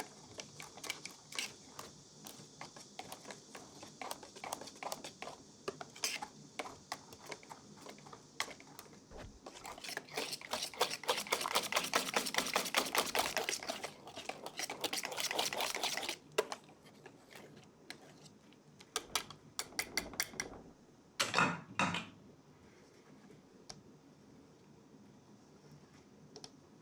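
Baking utensils handled at a work surface: light scattered taps and clicks, then about six seconds of fast, dense clicking and scraping. After that come a few separate taps and a short louder burst near the end.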